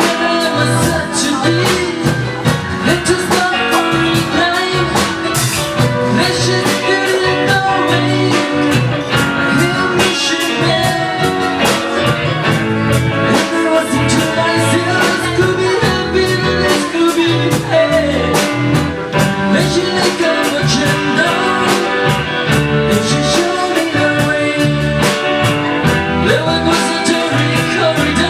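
A band playing a song, with guitar, drums and a singing voice.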